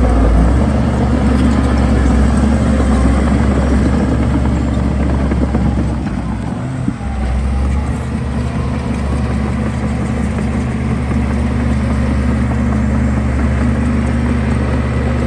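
Heavy diesel construction machinery running steadily with a low, even engine note. The note eases briefly about halfway through, then picks up again.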